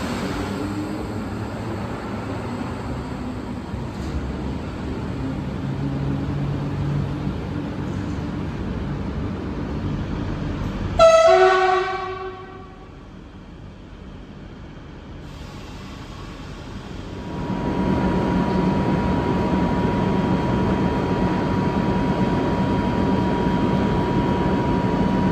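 Trains moving through a station: a steady rumble, then a short, loud train horn blast about halfway through, followed after a quieter moment by a louder steady train rumble with a thin steady whine over it.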